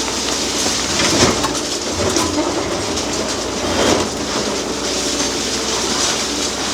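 Demolition excavators at work: an engine running under a dense clatter of concrete being crushed and rubble falling, with a few heavier knocks.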